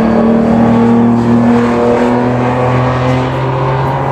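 Historic racing car engines running on the circuit: several steady engine notes overlap, one of them dropping away near the end.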